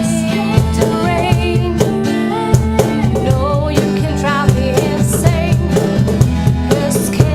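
Acoustic band music: a singer's wavering vocal line over strummed acoustic guitar and a steady drum beat.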